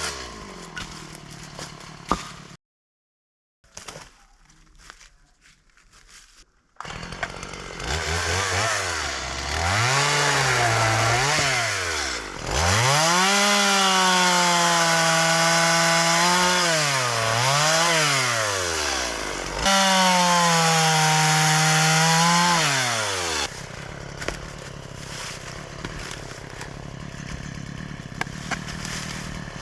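Chainsaw cutting up a downed live oak, its engine revving high and dipping in pitch again and again as the chain bites into the wood and frees. Before it there is a short break with a few quiet clicks, and after it some quieter clatter and ticks.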